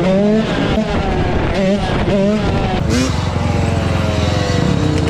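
Dirt bike engines revving during a street ride, the pitch jumping up and down with quick throttle blips, then one engine's pitch falling slowly over the last couple of seconds.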